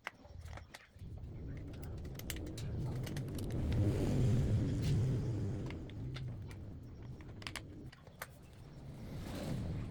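Low rumble of a passing vehicle that swells over a few seconds, peaks near the middle and fades, then begins to rise again near the end, with scattered small clicks.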